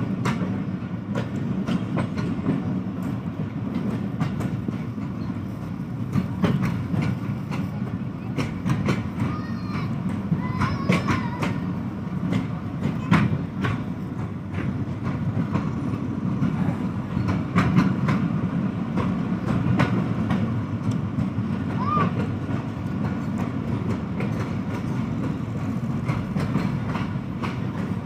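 Passenger train running on the rails: a steady low rumble with the clatter of wheels over rail joints and a few short squeaks.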